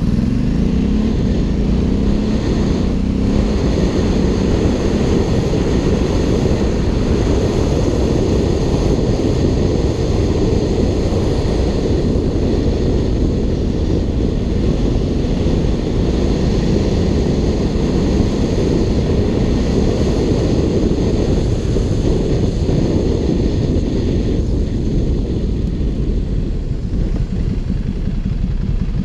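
Ducati Hypermotard 796's air-cooled L-twin running through an Arrow aftermarket exhaust. The engine note climbs in pitch over the first couple of seconds, then settles into a steady, dense rumble.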